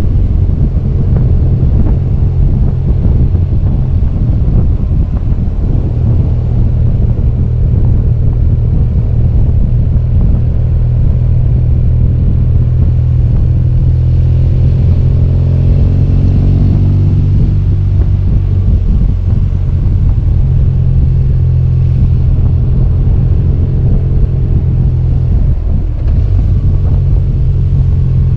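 BMW R1200GS boxer-twin engine running under way, a steady low rumble with road and wind noise; about halfway through, the engine note falls away briefly.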